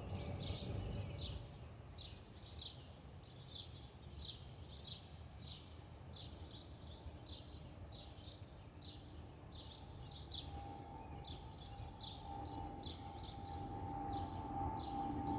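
Airbus A319-114 approaching with its wing fuel over-pressure protector (FOPP) cavities whistling: a steady two-note tone sets in about two-thirds of the way through and grows louder over a low rumble. A bird chirps in quick repeated calls throughout.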